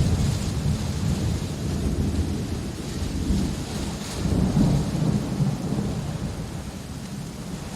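Thunder rolling during steady rain: it opens on a sudden loud crack, rumbles low, swells again about four and a half seconds in, then fades, with the hiss of rain underneath.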